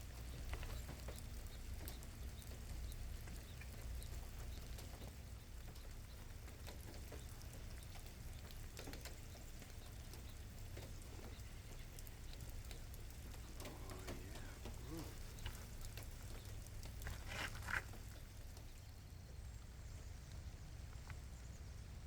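Light rain pattering and dripping, with scattered small ticks over a low steady rumble. A short, sharp chirp stands out about 17 seconds in.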